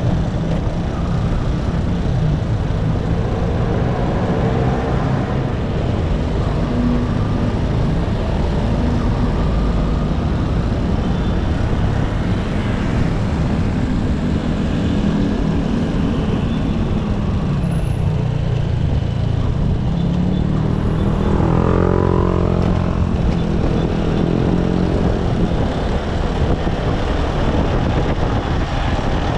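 Motorcycle engine running under way, with a steady rumble of road and wind noise; the engine pitch rises and falls a few times as it speeds up and eases off.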